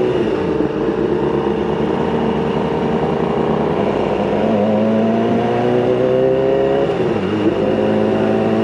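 Sport motorcycle engine pulling under steady throttle, its pitch climbing slowly. It dips briefly about seven seconds in, like a gear change, then climbs again.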